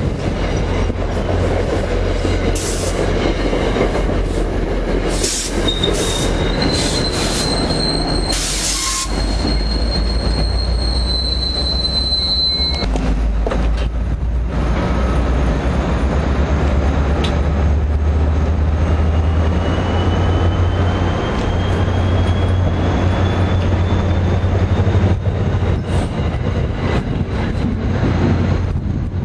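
Commuter passenger train coaches rolling past close by, wheels rumbling on the rails, with a high wheel squeal from about five to twelve seconds in. After a change in the sound, a train moves along the platform over a low diesel drone, with a faint whine that slowly rises in pitch.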